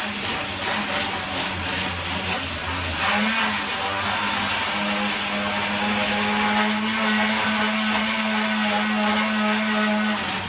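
Battery-powered mini chainsaw running, its motor holding a steady pitch, with a brief dip about three seconds in.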